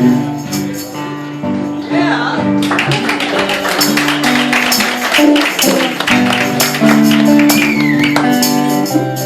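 Instrumental break of a gospel song: a band playing with a tambourine keeping a steady beat.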